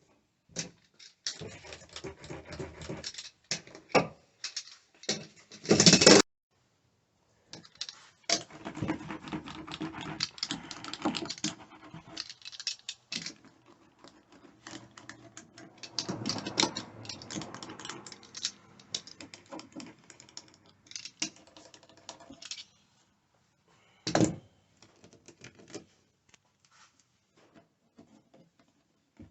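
Handling noises: irregular crinkling, scraping and clicking as material is worked by hand. There is a loud burst about six seconds in and a shorter loud knock later on.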